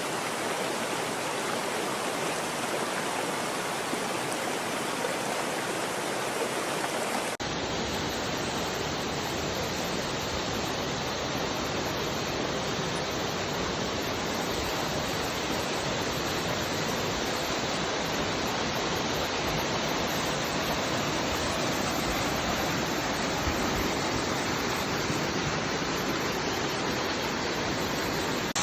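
Waterfall cascading over rocks, a steady rush of falling water. About seven seconds in the sound changes abruptly and becomes deeper and fuller.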